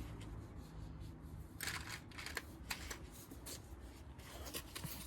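Light metallic clicks and clinks of hand tools being handled: a 21 mm socket or spanner being tried on the sump drain bolt, with a short rustle about a second and a half in.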